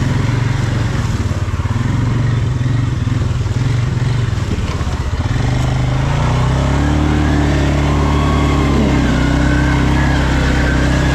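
ATV engine running hard, its revs rising and falling; about halfway through the engine note drops and steadies, with revving swells over it.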